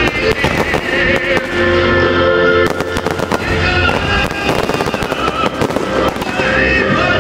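Fireworks bursting and crackling in quick succession, with music playing at the same time.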